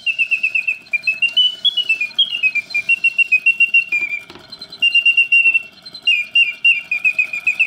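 Vintage pre-Reuge singing birdcage automaton singing in full voice: its bellows-blown whistle gives rapid chirping trills that step and slide up and down in pitch, with two short pauses about four and six seconds in.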